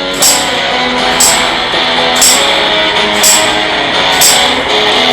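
Blues band instrumental: an electric guitar playing a sustained riff, with a tambourine struck about once a second.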